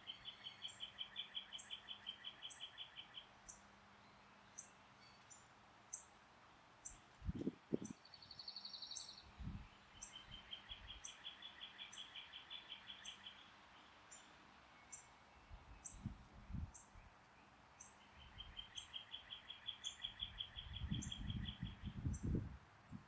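Songbirds outdoors: one bird sings a fast trill of quick repeated notes about three seconds long, three times, while a high thin tick repeats a little more than once a second. Low thumps of wind on the microphone come in mid-way and near the end.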